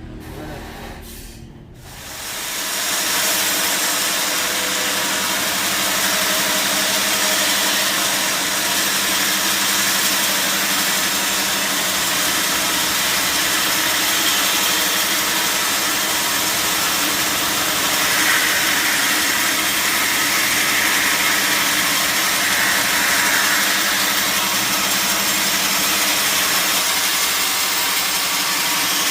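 Sawmill machinery starts up about two seconds in, rising quickly to a loud, steady run that holds without a break.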